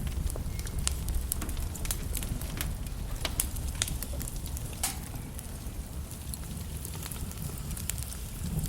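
Wood fire in a fireplace crackling, with frequent sharp irregular pops over a low steady rumble of the burning logs.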